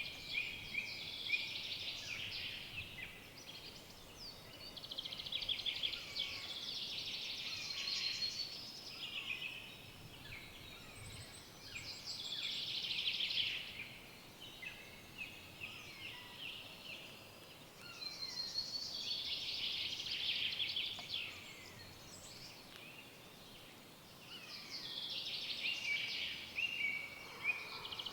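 Songbirds singing in a forest: rapid, trilling song phrases of a few seconds each come again and again, about every six seconds, with a few shorter chirps between them.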